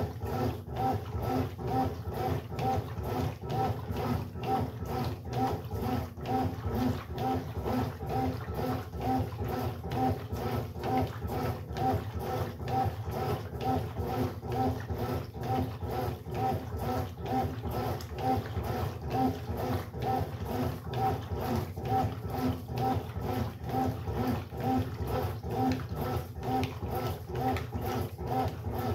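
Brastemp Sexto Sentido 8 kg top-loading washing machine agitating a load: the motor hums and the water sloshes in an even rhythm of about two to three strokes a second.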